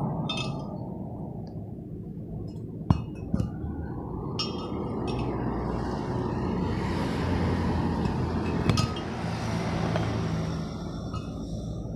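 Metal parts or tools clinking and knocking against each other several times, over a steady low workshop rumble.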